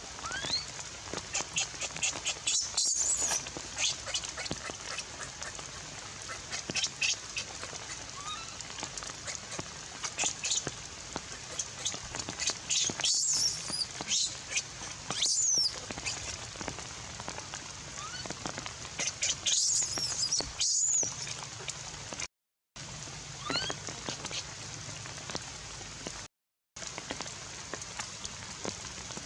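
A baby monkey crying in short clusters of high, thin, sliding squeals over a steady hiss of falling rain. The sound cuts out completely twice for a moment near the end.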